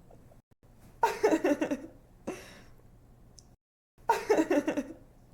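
A young woman giggling in two short bouts, about a second in and about four seconds in.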